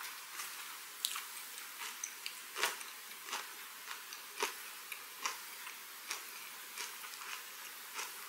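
Close-miked chewing of a mouthful of herring gwamegi wrapped with seaweed and kimchi: soft wet chewing with small irregular crunches and clicks.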